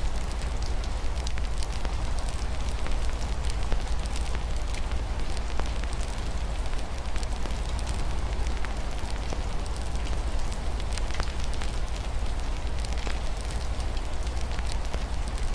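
Wood fire in a fireplace crackling, with frequent small irregular pops over a steady low rumble, along with a steady hiss of rain falling.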